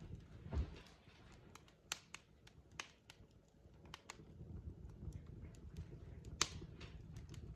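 Logs burning in a fireplace, crackling: irregular sharp pops and snaps over a low rumble of the fire, with one louder crack about six seconds in.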